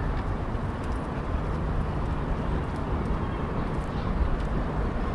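Steady rumble of road traffic, an even wash of noise with no single vehicle standing out.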